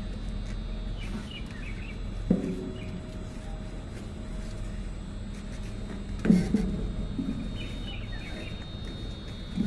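Steady low hum of a cargo boat waiting in a lock, with two sharp knocks on deck about two and six seconds in while the mooring lines are being cast off. Faint bird chirps come twice.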